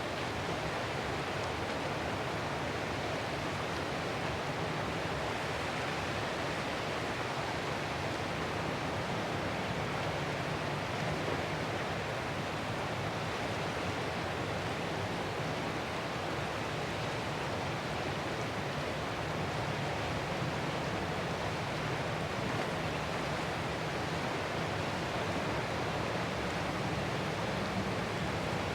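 Ocean surf heard as a steady, unbroken rushing wash, with no separate waves rising and falling.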